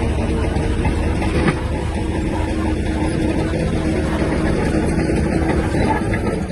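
Shantui DH17-C3 bulldozer's diesel engine running steadily, a deep continuous engine sound.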